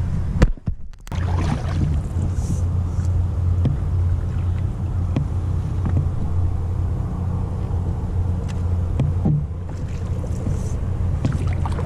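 Steady low rumble of wind on the microphone over an even wash of outdoor noise, with a few faint light knocks; the sound drops out briefly about half a second in.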